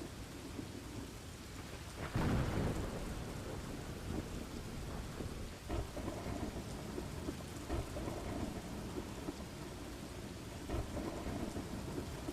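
Steady rain, with a burst of thunder about two seconds in and a few softer swells of rumble afterwards.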